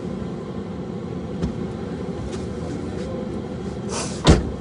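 Car engine idling with a steady low rumble, a soft knock about a second and a half in, and a short hiss followed by a loud thump near the end.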